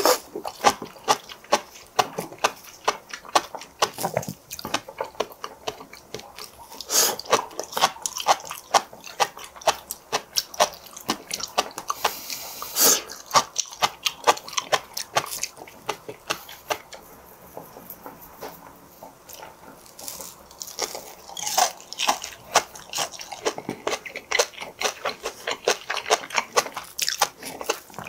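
Close-miked chewing of seafood: a constant run of wet mouth clicks and smacks with crunchy crackles, a few louder crunches standing out, and a quieter stretch past the middle.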